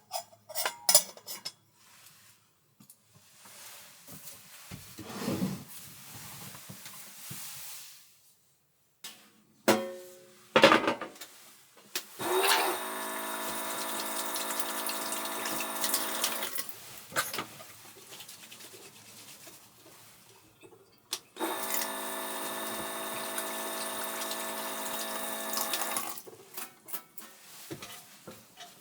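A small electric appliance motor runs twice, about four seconds each time, with a steady buzzing tone, starting and stopping abruptly. Before it come a few light clicks and knocks of kitchen things being handled.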